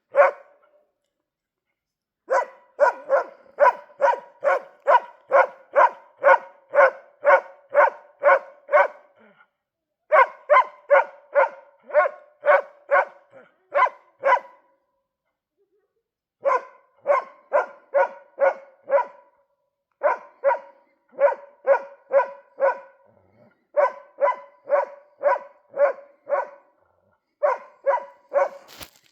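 A dog barking at a moose in long, evenly paced runs of about two barks a second, with short pauses between runs.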